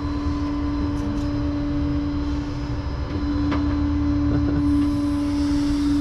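Tow truck running steadily, a low rumble under a constant-pitch hum that gets louder about three seconds in, with a few faint clicks.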